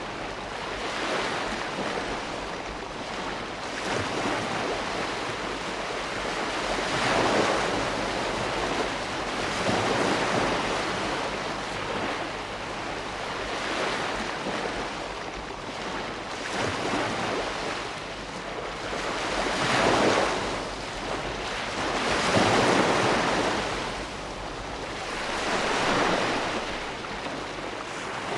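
Ocean waves breaking and washing in, a steady rush of surf that swells and eases every few seconds, with several louder breakers.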